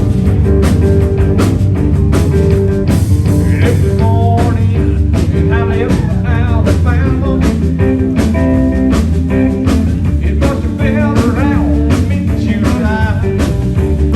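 Blues-rock band playing, with drums keeping a steady beat under bass and guitar.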